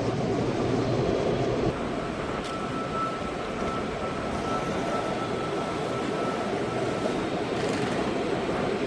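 Steady rumble and hiss of a Kamome shinkansen train, with a faint thin high tone for a few seconds in the middle.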